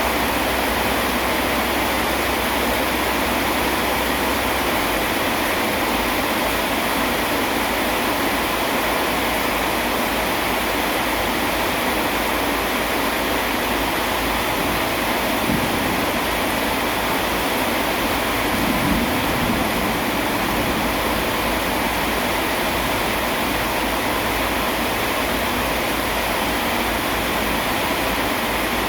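Steady heavy rain, an even hiss across the whole range, with a brief low rumble a little past the middle.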